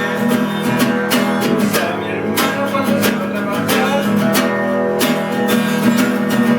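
Acoustic guitar strummed, with repeated chord strokes ringing on.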